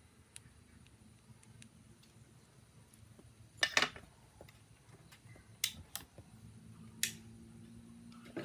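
Small sharp clicks of hard plastic and metal parts being handled during phone repair work: a quick cluster of clicks about three and a half seconds in, then three single clicks about a second apart near the end.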